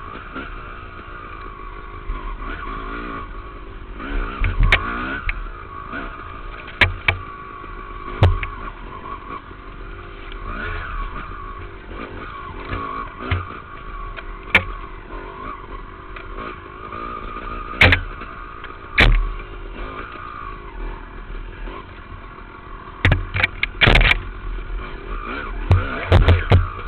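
Dirt bike engine revving up and down as it is ridden over a trail, heard from a helmet-mounted camera. Sharp knocks and clatter come again and again, thickest near the end.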